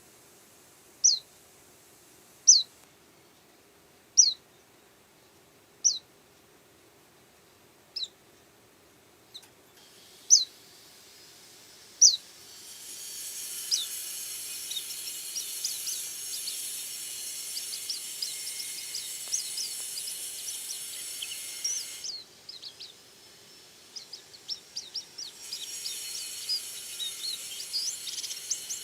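A white-eye (pleci) giving single thin calls, each falling in pitch, one every second and a half to two seconds. About 13 seconds in, a steady hiss comes in under rapid, dense high twittering. It breaks off about 22 seconds in and returns a few seconds later.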